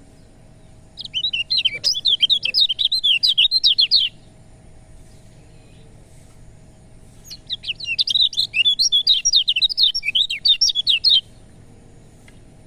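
Kecial kuning (a yellow white-eye, 'pleci') singing two fast, chattering bursts of quick high notes, each about three to four seconds long, with a pause of about three seconds between them.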